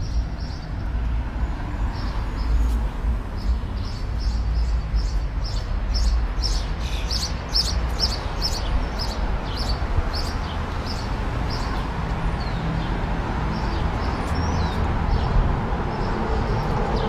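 A bird chirping over and over, several quick high chirps a second, which fade out near the end. Underneath runs the steady low rumble of a Segway Mini rolling along a sidewalk.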